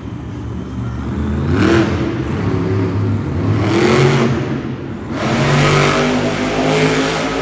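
Monster truck engine revving hard: its pitch rises in surges about two and four seconds in, then holds at high revs.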